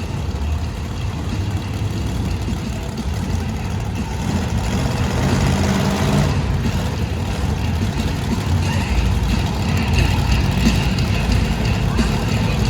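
Monster truck engine running in an arena, a deep, steady rumble that grows louder about four seconds in.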